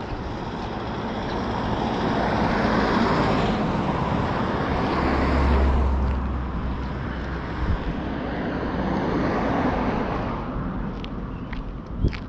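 Road traffic: vehicles passing, their rushing tyre and engine noise swelling and fading two or three times, with a low rumble from one of them. A few sharp clicks near the end.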